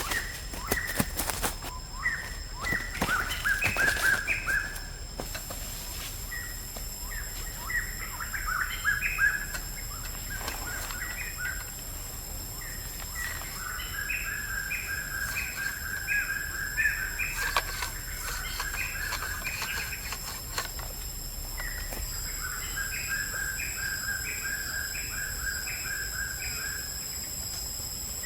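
A songbird calling in runs of quick, evenly repeated chirps, each run lasting a few seconds with short gaps between. A few sharp clicks sound in the first five seconds, and a steady high whine comes in about five seconds in and holds.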